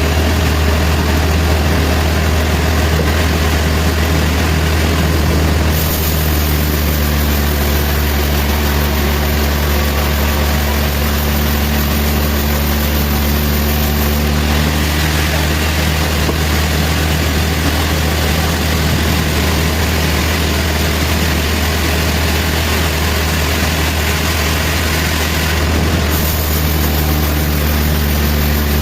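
Sawmill machinery running: a loud, steady heavy engine drone with a low hum. Extra steady tones and a high hiss join in from about six seconds in until about fourteen, and again near the end.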